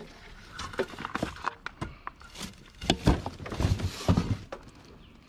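Irregular knocks and thuds from junk being moved about in a hard-rubbish pile, several in quick succession around the middle.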